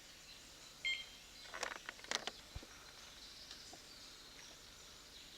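A short electronic beep about a second in, then a quick cluster of sharp clicks and knocks, over faint birds chirping in the background.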